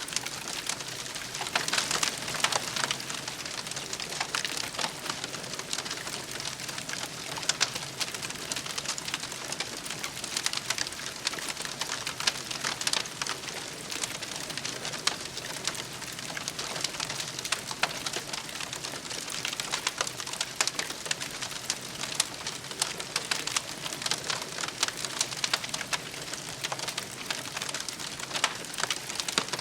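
Campfire burning, crackling steadily with many irregular sharp snaps over a soft hiss.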